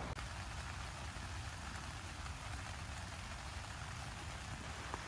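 Steady rain falling on a tent: an even hiss with a low rumble underneath, and one small click near the end.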